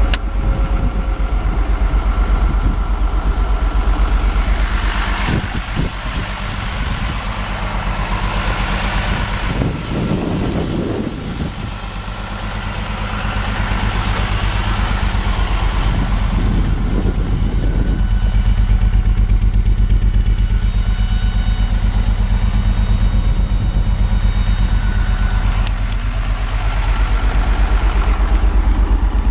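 1967 Mercedes-Benz 250SL's fuel-injected 2.5-litre straight-six idling steadily.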